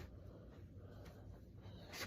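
Near silence: a faint, steady low rumble, with a soft click at the start and another near the end.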